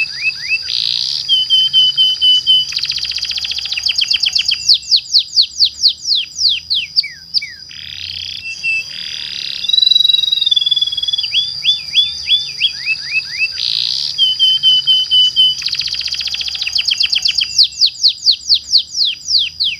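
Domestic canary singing a long, varied song: rapid trilled rolls, buzzy rattles and runs of quick falling whistled notes. The same sequence of phrases comes round again about halfway through, as in a looped lure recording.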